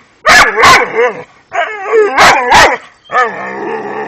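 A dog barking and yelping in three loud bouts of barks.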